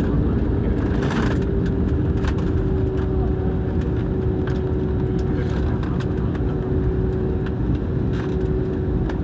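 Airliner landing or rolling on the runway: a steady low rumble with a constant whine from the engines, and scattered light rattles and clicks.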